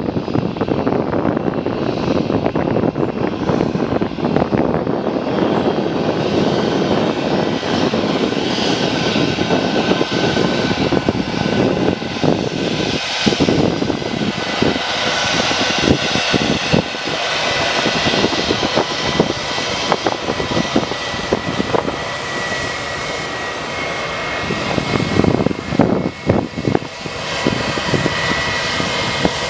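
Airbus A321 airliner's jet engines running at taxi power as the plane taxis: a steady, loud rushing noise with a thin high whine that grows stronger in the second half.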